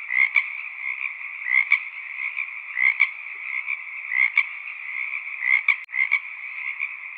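Frog chorus: a steady, dense calling with a louder call repeating about every second and a half.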